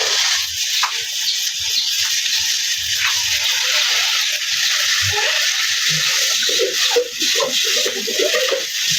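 Steady hiss of a water spray washing down a motorbike.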